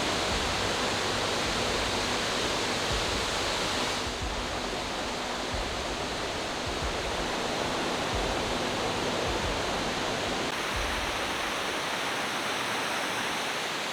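Spring-fed water pouring over a hatchery spillway, a steady rushing roar. Its tone shifts slightly about four seconds in and again around ten seconds.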